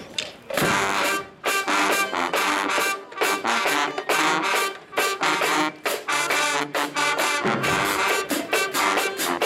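Marching band brass section playing loud, punchy chords. It strikes up about half a second in.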